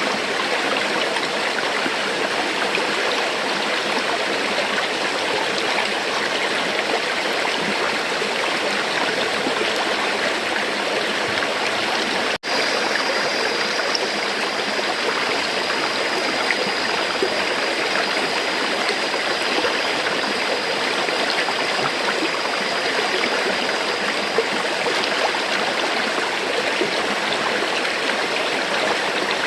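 A river flowing steadily, a continuous rush of water. It cuts out for an instant about twelve seconds in, after which a faint steady high tone runs along with the water for a while.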